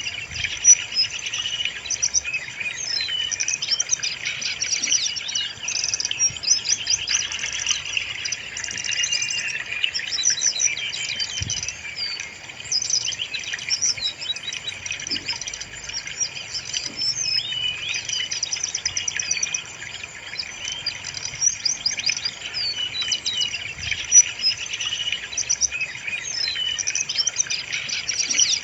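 Brown-chested jungle flycatcher (sikatan rimba dada coklat) singing: a dense, fast run of varied chirps and trills that goes on without a break. It is a recorded song played as a lure to get a caged bird to start singing.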